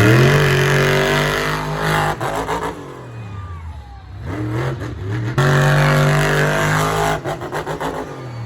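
Big monster truck engine revving hard twice. It holds a steady high pitch for a couple of seconds each time, with the revs dropping away in between.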